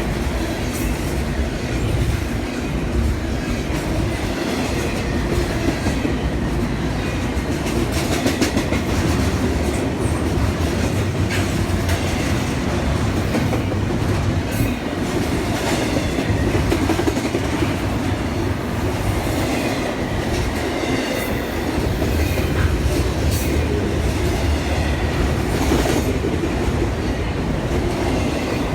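Train rolling steadily past with a continuous rumble from the moving cars and wheels clacking over the rails.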